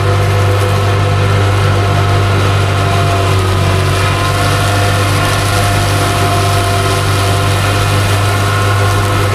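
Tractor diesel engine running at a steady speed, a constant deep hum with no change in pitch or level.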